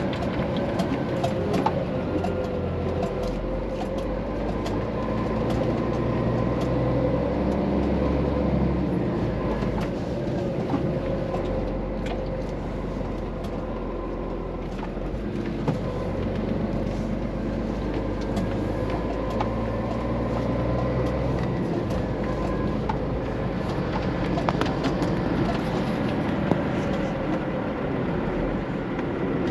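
Scania truck under way: steady engine and road rumble, with the engine note shifting a few times and scattered light rattles.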